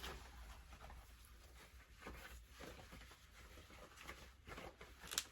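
Faint soft rubbing of a damp cloth being wiped over the top of a washing machine, over a low electrical hum, with a sharp click near the end.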